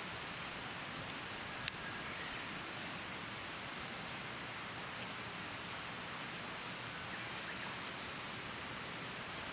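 A small twig fire burning in a Firebox Nano stove: a steady hiss with a few sharp crackles, the loudest one just under two seconds in.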